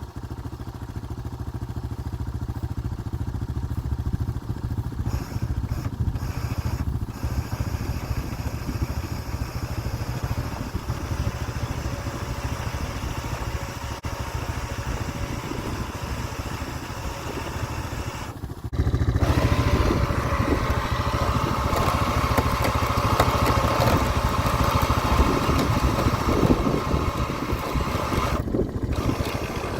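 Snowmobile engine running steadily in the shop, with a deep, even drone. Just before two-thirds of the way through it grows louder and gains a higher hum.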